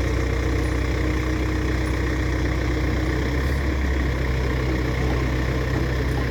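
Heavy vehicle engine idling steadily, a low even hum.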